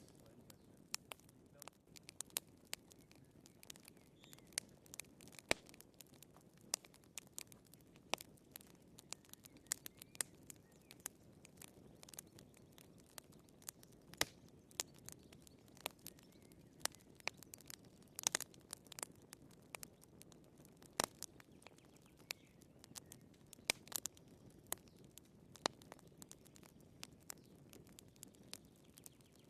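Wood fire in a fireplace crackling: irregular sharp pops and snaps of burning firewood, several a second, over a faint low hiss of the flames.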